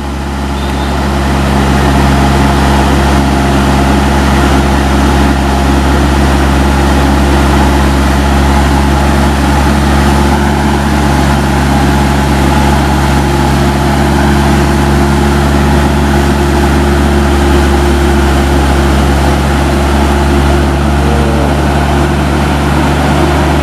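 Heavy-haul truck's diesel engine running steadily at a constant speed under an 85-ton locomotive load, a loud, even drone with no change in pitch.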